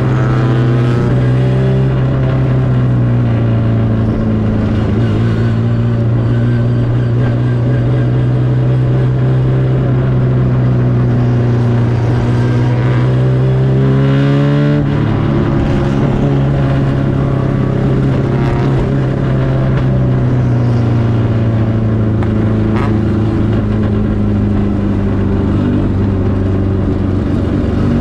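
MGB race car's 1.8-litre B-series four-cylinder engine running hard, heard on board. Its pitch climbs steadily under acceleration, drops sharply with an upshift about halfway through, then holds fairly steady.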